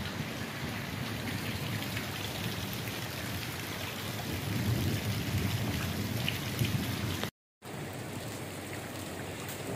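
Heavy rain falling steadily, pattering on standing water and wet paving. The sound cuts out completely for a moment about seven seconds in.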